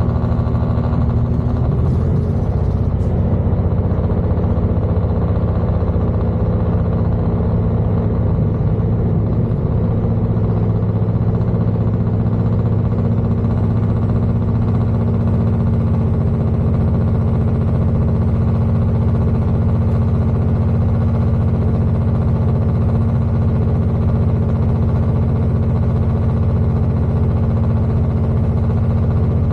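Interior running noise of a Class 221 Super Voyager diesel-electric train under way: a steady drone from its underfloor diesel engines over rolling noise. The engine note shifts slightly about two seconds in.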